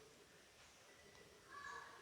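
Near silence: room tone, with one faint short chirp about one and a half seconds in.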